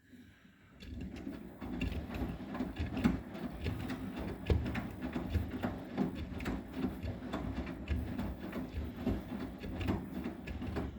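Arçelik 9120M washing machine drum turning with a pillow inside, giving a rumble with irregular thuds and knocks. It builds up within the first second.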